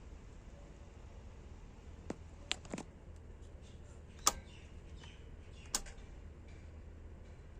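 A handful of short, sharp clicks and knocks, five in all, the loudest a little after four seconds in, over a faint low steady hum.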